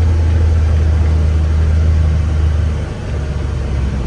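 The Ranger's engine running as it drives, a steady low drone that dips briefly about three seconds in and then carries on at a slightly different pitch.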